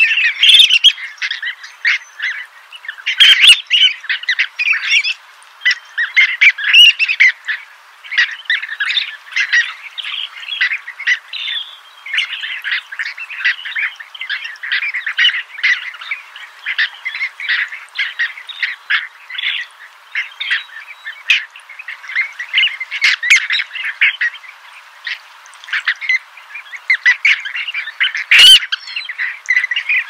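Bird calls: many short chirps and buzzy calls overlapping in a dense, continuous chatter, with louder bursts now and then.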